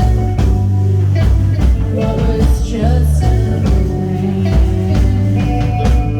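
Live rock band playing loudly: bass notes, drum hits and guitar, with some singing.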